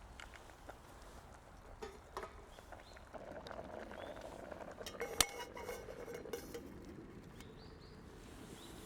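Metal camp cookware and utensils clinking and scraping, with one sharp ringing clink about five seconds in.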